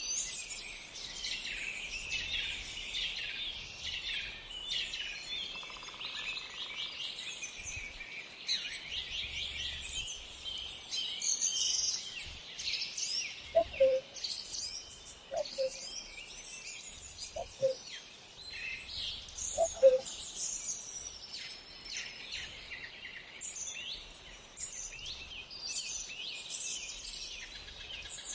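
Many small songbirds chirping and singing at once, a dense, high-pitched chorus. About halfway through, a short, lower call sounds four times, roughly two seconds apart.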